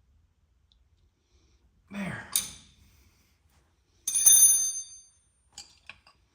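A short breathy vocal sound about two seconds in, then a sharp metallic clank that rings for about a second, followed by a few light clicks: metal parts knocking together during shop work on a race car.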